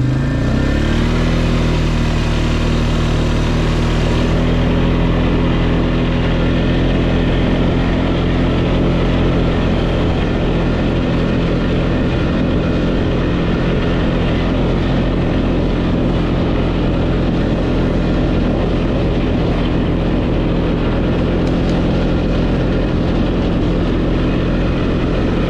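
Off-road vehicle engine running at a steady cruising speed, a constant loud drone while riding over rough ground.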